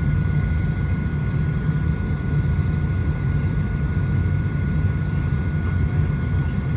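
Steady cabin noise inside a Boeing 737-900ER on the ground before takeoff: a constant low rumble with a thin, steady high whine over it.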